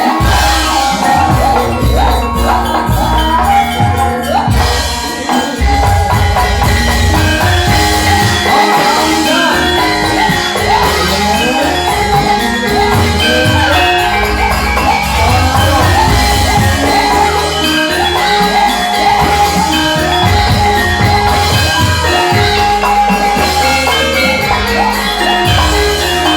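Javanese gamelan music: bronze metallophones ringing out a melody over a steady drum beat.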